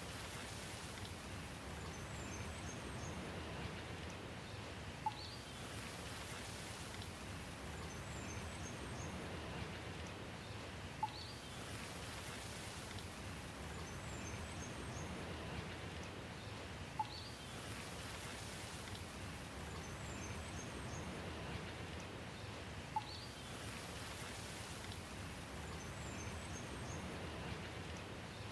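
Steady rain hiss. About every six seconds a sharp tick is followed by a short rising whistle and a few faint high chirps, repeating at even intervals.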